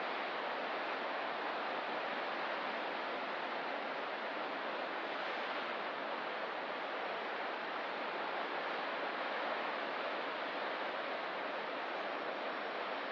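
Ocean surf on the coast, a steady even wash with no separate wave breaks standing out.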